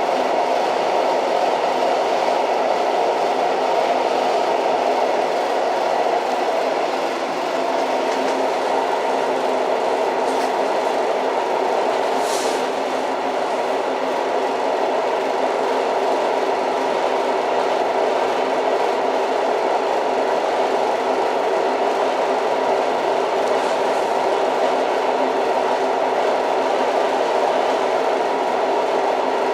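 Old train running at a steady speed: an even, unbroken rumble, with a short high-pitched sound about twelve seconds in.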